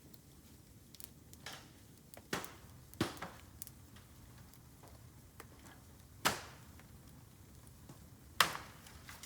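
Bamboo burning in an open fire: scattered sharp cracks and pops over a low, steady fire noise, the two loudest cracks about six and eight and a half seconds in.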